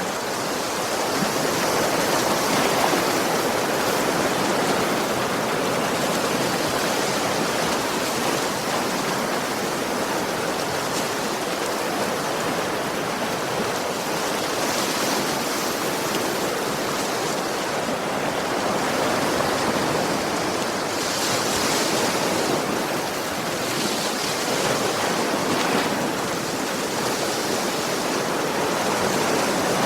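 Sea waves washing and breaking on a shore, a steady rushing wash that swells and eases gently.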